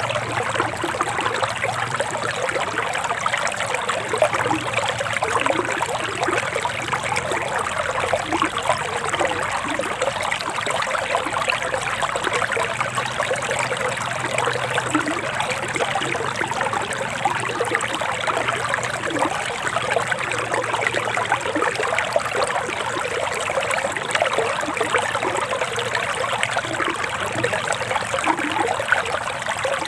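Forest river water flowing steadily, with a constant trickling rush.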